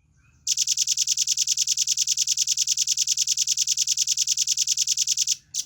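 Velvet-fronted nuthatch (red-billed nuthatch) singing a rapid, evenly spaced high-pitched trill of about nine or ten notes a second, lasting nearly five seconds, with one short note just after it stops.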